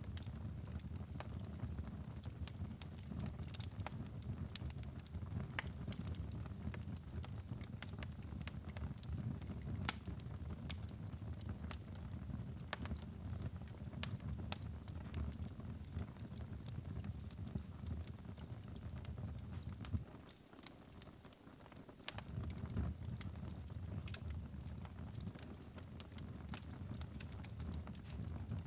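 Wood fire burning in a fireplace, crackling with frequent sharp, irregular pops over a low rumble of flames. The rumble drops away for a second or two about two-thirds of the way through, and the pops carry on.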